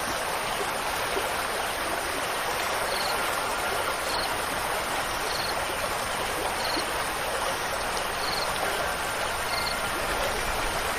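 Steady rushing water, like a stream, with a short high chirp repeating about every second and a quarter. Faint wind chime tones begin to ring in near the end.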